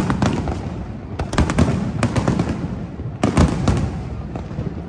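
Aerial fireworks going off in rapid clusters of sharp bangs over a continuous low rumble. The densest clusters come about a second and a half in and again a little after three seconds.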